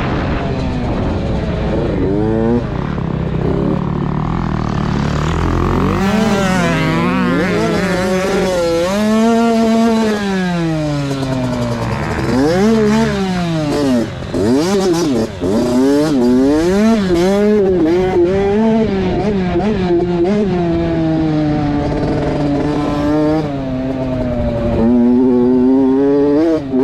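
Motocross dirt bike engine revving up and dropping back again and again as the rider accelerates, shifts and rolls off through the track's corners and jumps.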